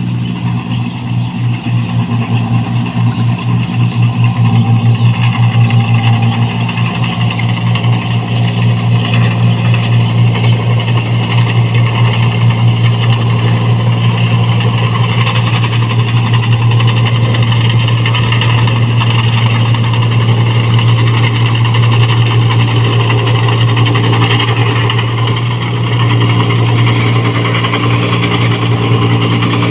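New Holland 1545 combine harvester's diesel engine running with its loud exhaust, a deep steady drone that pulses quickly for the first few seconds and then holds steady.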